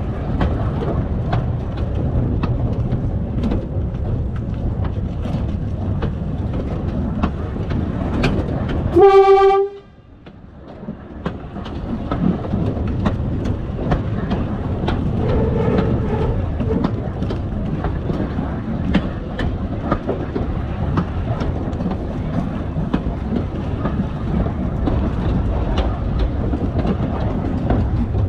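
Savannahlander 2000 class railmotor running along the track with a steady rumble and wheel clicks on the rail joints. About nine seconds in it sounds its horn once, a short single-pitched blast. The running noise dips for a moment afterwards and then returns.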